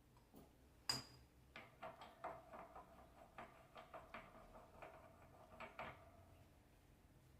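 Faint metallic clinks and taps of metal parts and tools: a sharp ringing clink about a second in, then a quick, irregular run of about a dozen light clicks with a faint ring under them, as a worn bearing is worked off a Nissan Kicks alternator in a press.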